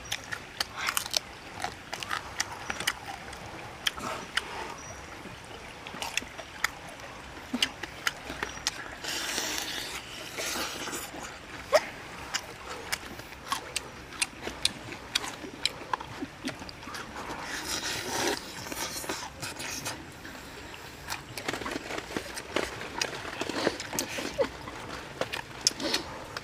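Close-up eating sounds: a man biting and chewing cooked chicken, with many short wet mouth clicks and smacks. Twice there are a few seconds of denser rustling noise.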